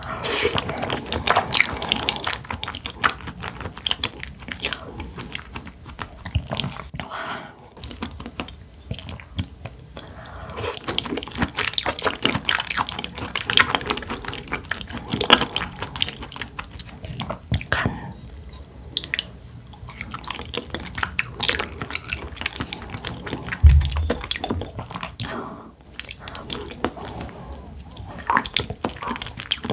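Close-miked chewing and eating of blackthroat seaperch dishes: many small wet mouth clicks and smacks in an uneven run. There is one dull low thump a little before the end.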